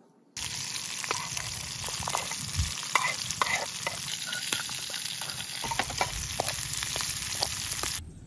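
Pork frying in a small metal camping pot, sizzling steadily, with scattered sharp clicks of a spoon against the pot as shallots and garlic are tipped in and stirred. The sizzle starts abruptly about half a second in and cuts off abruptly near the end.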